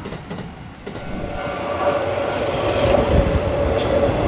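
Moto-sand train, Kintetsu electric freight cars hauling Yoro Railway cars, running on the rails, getting louder from about a second in, with a steady whine over the running noise.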